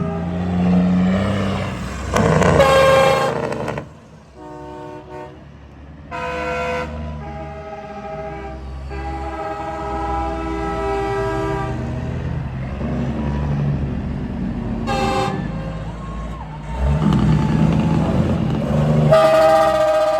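Semi-truck air horns blowing a series of blasts, some short and one held for several seconds, with a steady low rumble of truck engines running underneath.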